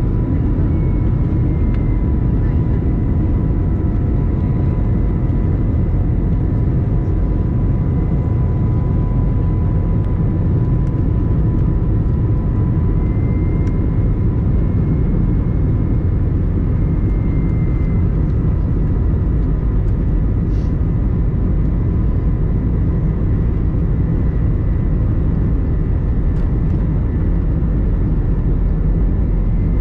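Steady cabin noise inside an Airbus A321-200 airliner: a deep, even rush of engine and airflow noise with a faint steady whine.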